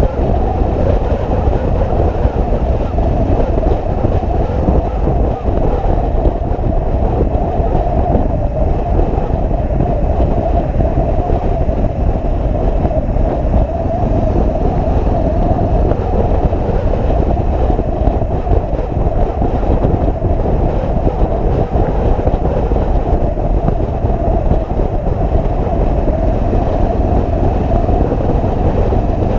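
Motorcycle riding at a steady speed: a constant, loud rumble of wind and road noise over the engine.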